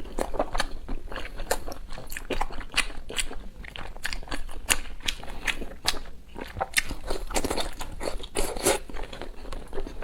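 A person chewing crunchy food close to the microphone: dense, irregular crunches and crackles from bite after bite.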